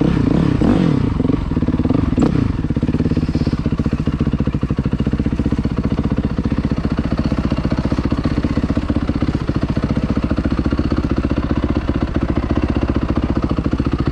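Dirt bike engine revving up and down for about two seconds, then settling to a steady idle.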